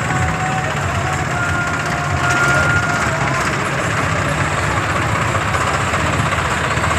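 Tractor engines running steadily, with voices in the background.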